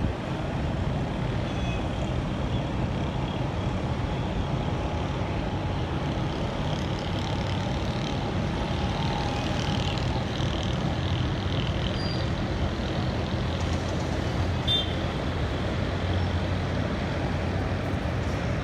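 Steady rumble of road traffic, with a few faint, brief high tones and a short sharp sound near the end.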